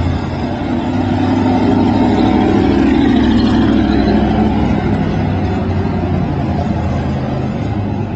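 Engine of a modified dirt track race car running, swelling louder about two seconds in and easing back down over the following seconds.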